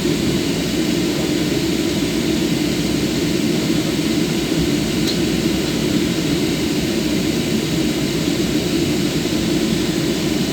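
Steady jet engine and air-system noise heard inside an airliner's cabin, a constant low rumble and hiss, as the aircraft taxis after landing.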